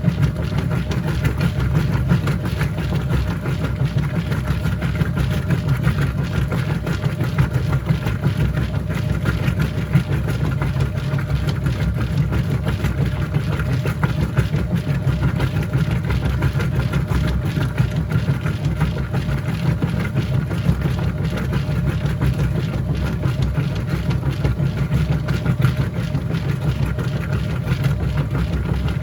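Whirlpool top-load washing machine running with a steady low motor hum and a few faint higher tones, unchanging throughout.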